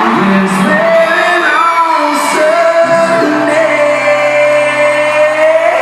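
Live concert music: amplified band playing with a singer's held, bending vocal line and some shouts from the crowd, in a large hall.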